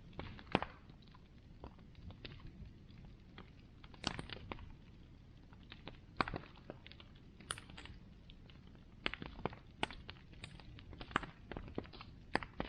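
Bonfire crackling: irregular sharp pops and snaps, a few louder ones standing out, over a steady low rumble of the burning fire.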